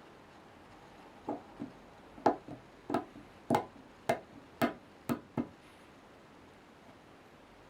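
About ten sharp, light knocks, each with a brief ring, coming roughly two a second from about a second in until about five and a half seconds in: parts of a lathe-turned stainless steel container being handled.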